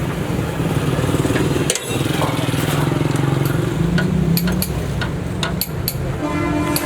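A small engine running steadily, with sharp clicks and taps scattered over it.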